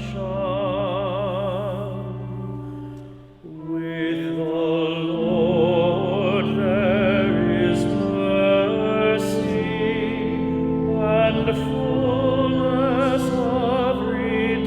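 Sung responsorial psalm refrain: a voice singing with wide vibrato over sustained organ chords, with a short break in the music about three and a half seconds in.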